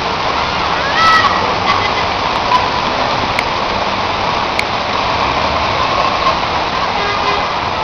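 Steady rush of heavy rain and running floodwater, with a brief louder sound with some pitch about a second in and a few scattered sharp clicks.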